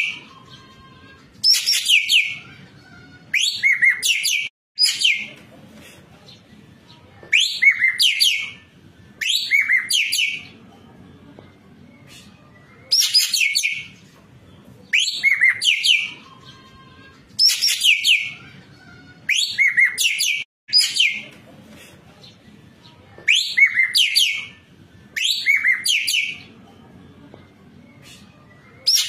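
Racket-tailed treepie (ekek keling) calling over and over: loud bursts of several sharp, falling notes, each burst about a second long, coming every couple of seconds.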